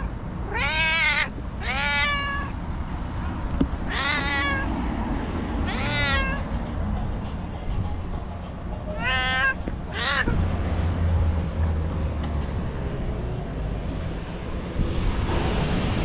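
A white stray cat meowing repeatedly, about six meows in the first ten seconds, each rising then falling in pitch, the last two short and close together. After that the meows stop, leaving a steady low rumble in the background.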